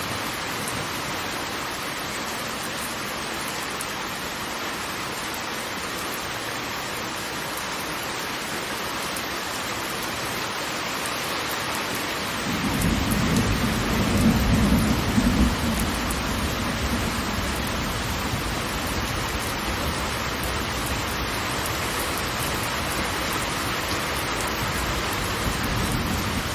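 Steady hiss of falling water. About halfway through, a deep low rumble swells in and is loudest for a few seconds, then eases into a lower, continuing roar.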